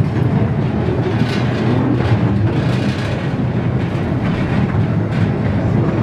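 Zoo train running along its track: a steady rumble with a few faint clicks, heard from an open-sided passenger car.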